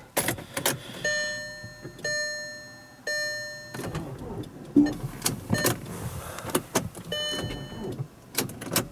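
Sharp clicks and the 2005 VW Passat's electronic dashboard warning chimes: three evenly spaced beeps, then a shorter, higher beep, with no engine cranking or firing. The car is too weak to start after sitting for weeks and needs a jump.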